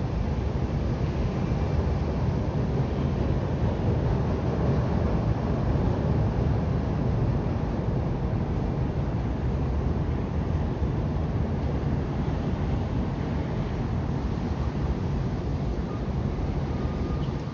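Steady low rumble of wind buffeting the microphone, with a fainter hiss above it.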